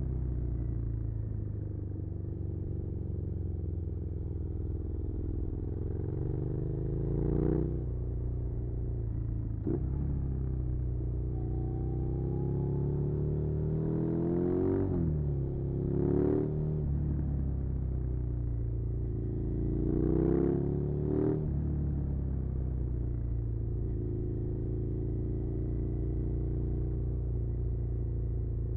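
Suzuki SV650's 90-degree V-twin engine under way, its pitch climbing under acceleration and dropping sharply at gear changes several times, then settling into a steady cruise near the end.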